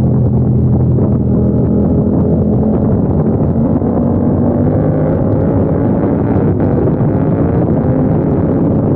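KTM 890 Duke R's parallel-twin engine running hard on track, heard from a camera on the bike with wind rushing over the microphone. The engine note holds steady for the first few seconds, then rises through the second half as the bike accelerates out of a corner.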